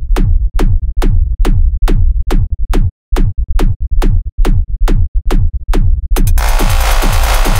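Electronic dance music: a drum-machine kick drum beats a little over twice a second, each hit dropping in pitch. About six seconds in, a dense hissing synth layer comes in over the beat.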